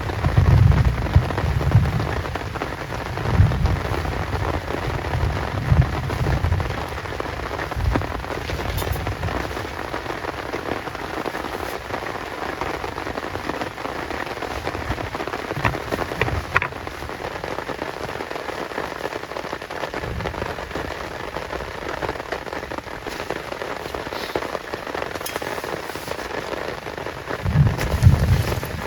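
Heavy rain falling steadily. Low rumbling surges come through in the first several seconds and again near the end.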